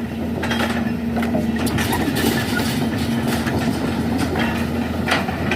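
Heavy engine running steadily with a low hum, with scattered short knocks and clanks over it.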